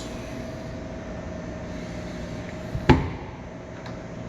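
A single hard thump about three seconds in, with a small click just before it and a short ringing tail: the boat's engine-access hatch lid being shut. A steady low hum runs underneath.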